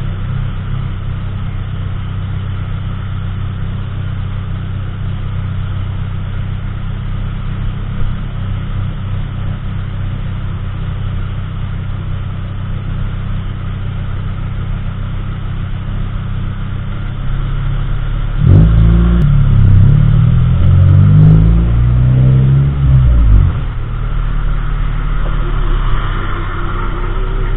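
Car driving, its steady low engine and road rumble heard from inside the cabin. About two-thirds of the way in, a louder stretch of about five seconds with a shifting pitch rises over the rumble.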